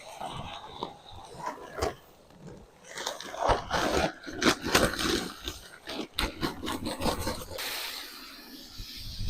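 Irregular scraping and sharp knocks, busiest through the middle of the stretch, like hands or a tool working material around a newly set post.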